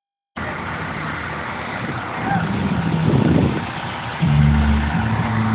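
Car show ambience: a steady wash of vehicle and crowd noise, with deep bass notes coming in about four seconds in.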